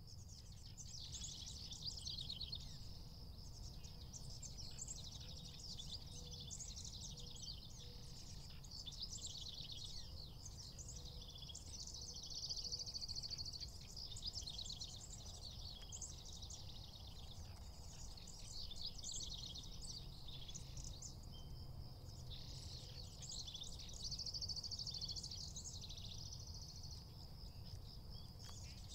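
A chorus of small songbirds chirping and trilling continuously, faint, over a low steady rumble.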